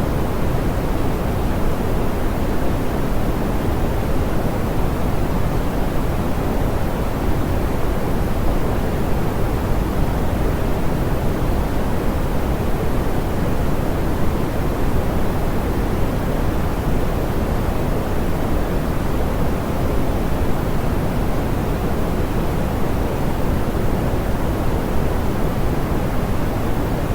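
Steady, soft pink noise: an even hiss weighted toward the low end, with the highs rolled off and no change throughout.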